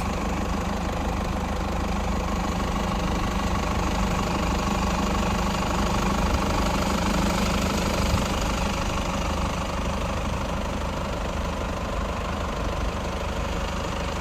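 Toyota Land Cruiser Prado's 3-litre inline-four turbocharged diesel engine idling steadily.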